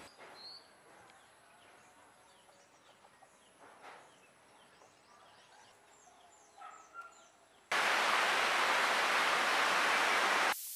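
Faint chirping of small birds. Near the end comes about three seconds of a loud, steady hiss that starts and stops abruptly.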